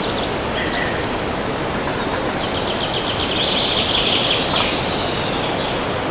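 Steady wind in forest trees, with a songbird singing over it: a few short chirps near the start and a fast trill of rapid high notes about halfway through.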